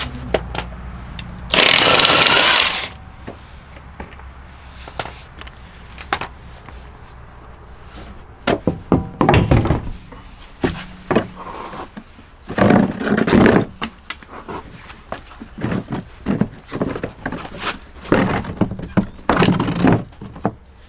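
Hands-on tool work on a car: irregular clicks, knocks and clattering, with a loud rushing burst about two seconds in that lasts just over a second.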